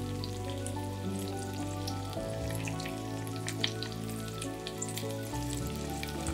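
Zucchini slices with an egg filling frying in hot oil in a nonstick pan, sizzling with scattered crackles and one sharper tick about halfway through. Soft background music with steady tones plays underneath.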